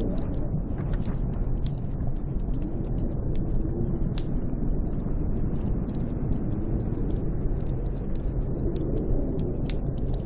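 Snowstorm wind blowing steadily with a deep rumble and a faint wavering howl, over many small sharp crackles and pops.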